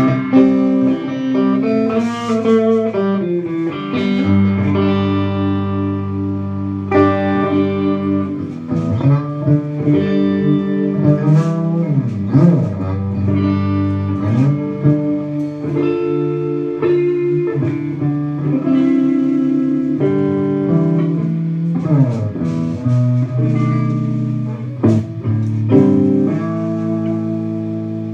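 Guitar-led instrumental music with held notes over a steady bass line, played during a sound check.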